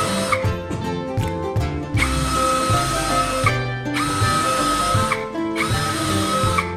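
Power drill running in bursts of about a second, stopping and starting several times, over background music.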